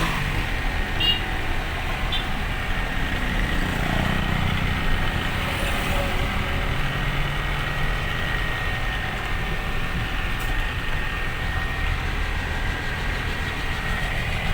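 Truck engine running steadily, a low even hum with a thin high whine over it.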